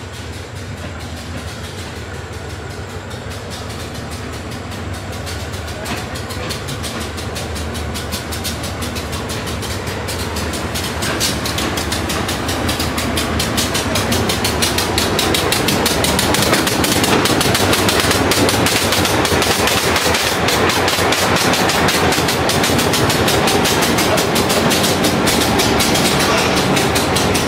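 Diesel locomotive hauling a passenger train into a station, its engine growing louder as it approaches. About halfway through, the coaches roll past with a rapid rhythmic clatter of wheels over rail joints.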